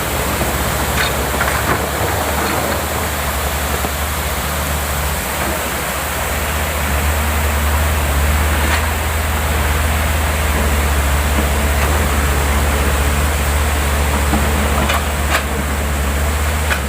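Water rushing steadily over an overflowing lake's spillway: a loud, even roar with a deep low rumble underneath.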